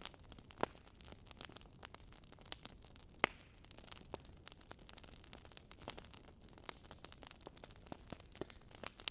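Wood fire crackling: irregular small pops and snaps over a faint hiss, with louder snaps about half a second in and a little after three seconds.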